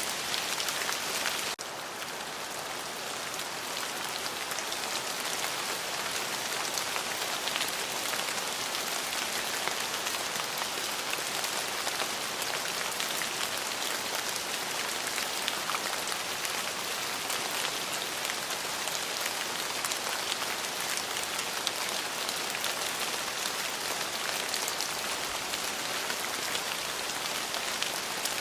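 Steady rain falling on a surface, a dense hiss of many drops. About a second and a half in the level dips suddenly, then builds back over the next couple of seconds.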